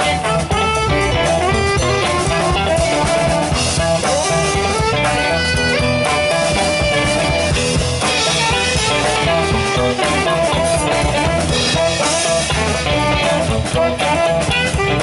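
Live rock band playing an instrumental passage with no singing: drum kit and guitar over a steady beat.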